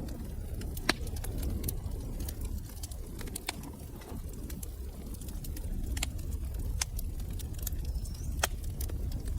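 Wood fire crackling in a fireplace: irregular sharp pops and snaps, a handful of them louder, over a low steady rumble of burning.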